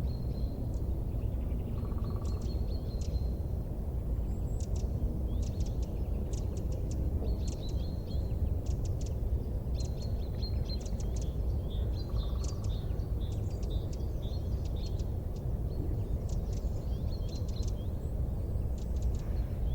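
Wood fire burning in a fireplace: a steady low rumble under frequent small, sharp crackles and pops scattered irregularly throughout.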